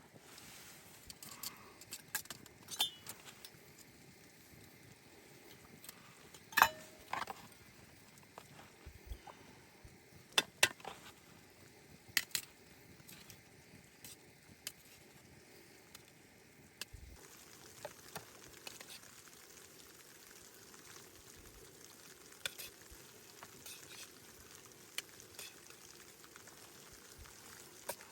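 Food frying in a pan: a soft steady sizzle with scattered sharp clicks and clinks of utensils, a few of them much louder.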